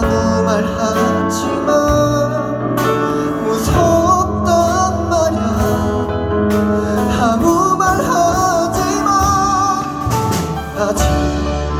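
A live pop ballad: a solo voice singing a melody over guitar and bass accompaniment.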